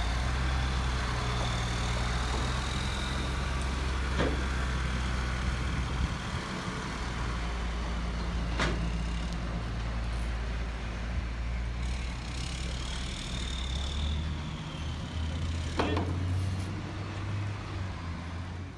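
Truck engine running steadily, with three sharp metallic clanks along the way and a faint high-pitched whine at times.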